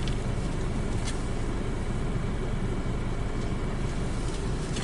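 Steady low rumble of a car, heard from inside the cabin, with a faint click about a second in.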